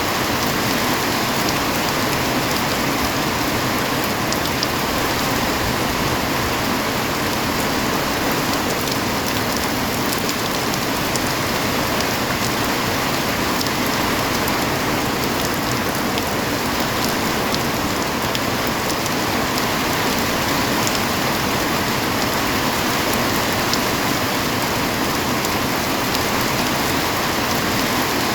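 Heavy rain falling steadily, a dense even hiss with the patter of drops striking surfaces.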